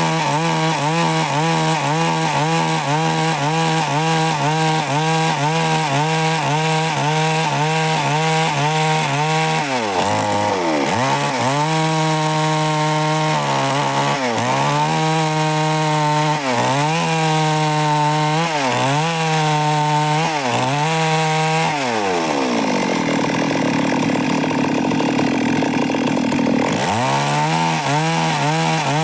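Stihl MS 382 two-stroke chainsaw running at high revs, cutting wood. About ten seconds in, the engine speed starts dipping and recovering about once a second; after about 22 seconds it drops to a low speed for several seconds, then revs back up near the end.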